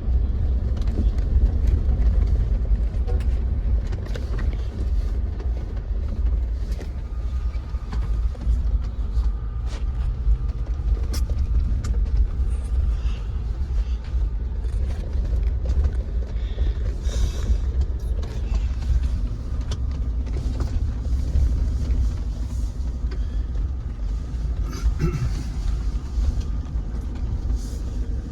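Jeep driving over a rough, bumpy dirt trail: a steady low rumble from the drivetrain and tyres, with scattered clicks, knocks and rattles as it goes over rocks and ruts.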